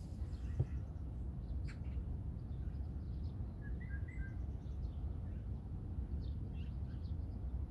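Wild birds chirping and calling, many short scattered chirps with a quick falling whistle about two seconds in, over a steady low rumble, heard from inside a tent.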